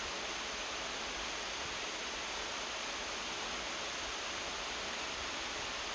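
Light rain drizzling, a steady even hiss with no distinct drops or knocks.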